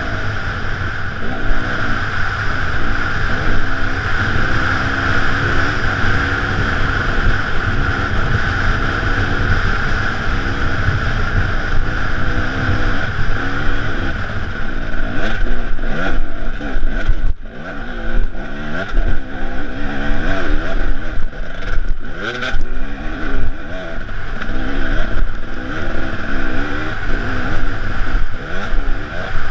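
Enduro dirt bike engine heard from on board, revving up and down over and over as the throttle is worked on a rough dirt trail. Knocks and rattles from the bumps come mostly in the second half, and the engine note drops briefly just past halfway.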